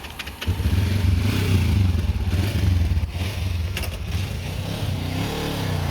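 A motor vehicle engine running close by, starting about half a second in, its pitch rising and falling as it goes.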